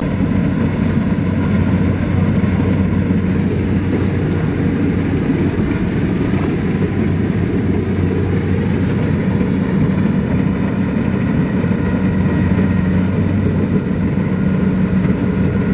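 A tractor or combine harvester engine running steadily, a loud, even low drone that holds without a break.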